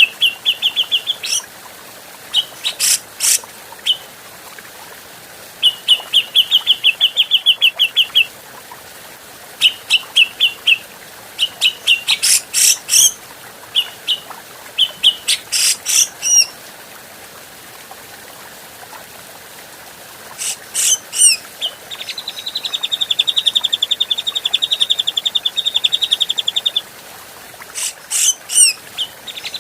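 Grey-cheeked bulbul (cucak jenggot) singing: bursts of fast, chattering runs of repeated notes held at one pitch, broken by several loud, sharp call notes, with one long run of notes about three quarters of the way through.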